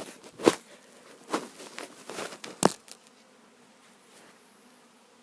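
Swarming honeybees buzzing past close by in several brief swells, the loudest about half a second in. After about three seconds the sound falls to a low hush.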